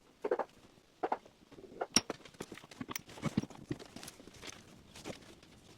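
Irregular knocks and clanks of work around a two-post car lift as its arms are moved, with a sharp metallic strike about two seconds in and another about a second later.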